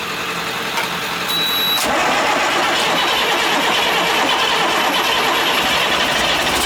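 International DT466 diesel being cranked on the starter for its first start after an in-frame rebuild, getting louder about two seconds in and carrying on without settling into a run. It nearly starts but does not catch, with air still in the unbled front injector line.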